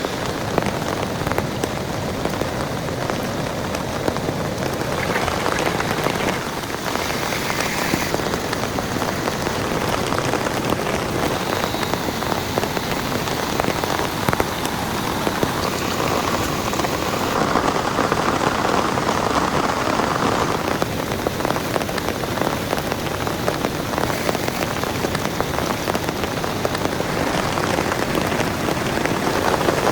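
Heavy rain falling steadily, a dense hiss of many drops striking a nearby surface.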